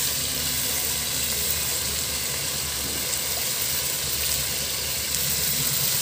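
Chicken adobo pieces sizzling steadily in oil in a frying pan, the final sauté that reduces the soy-vinegar sauce to a thick glaze.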